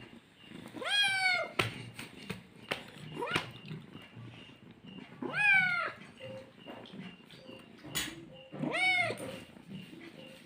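Domestic cat meowing three times, a few seconds apart, each meow rising then falling in pitch. A few short clicks sound in between.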